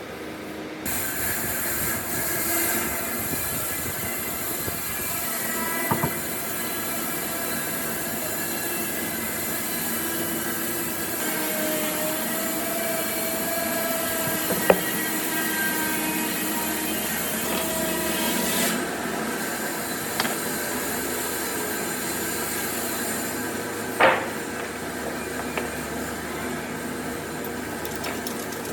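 A power tool working wood, running steadily with a hissing, high-pitched edge that drops away about two-thirds of the way through, leaving a lower steady running sound. There are three sharp knocks along the way.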